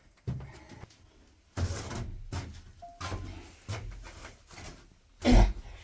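A series of knocks and thuds, with one heavy thump near the end.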